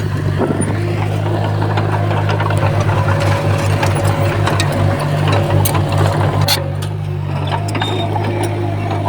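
Diesel engine of a Komatsu D20P crawler bulldozer running steadily under work, with a pulsing beat for a few seconds in the middle, and scattered clanks and rattles from the machine.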